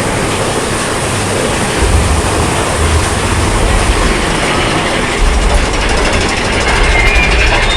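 Big Thunder Mountain Railroad mine-train roller coaster running on its track: a steady rush of noise, with low rumbling that swells from about two seconds in.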